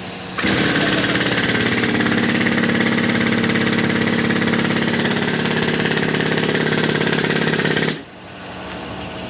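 Tyre changer machine's motor switched on about half a second in, running steadily with a fast, even pulsing hum, then cut off suddenly near the end.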